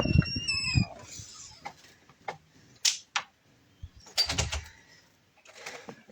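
A short bird call at the start, then a scattered series of sharp clicks and knocks, the heaviest a dull thump about four seconds in.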